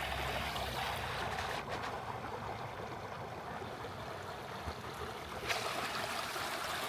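Creek water running steadily, an even rushing of flowing water.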